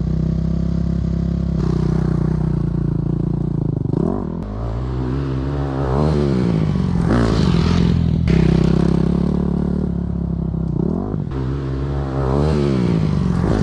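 Honda CRF250 dirt bike's single-cylinder four-stroke engine running under way, its revs rising and falling twice as the rider works the throttle.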